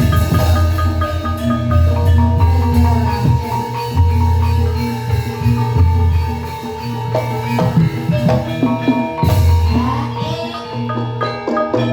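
Gamelan ensemble playing ebeg accompaniment: struck metallophone and mallet-instrument notes over deep gong tones that swell and die away every second or two, with hand drum.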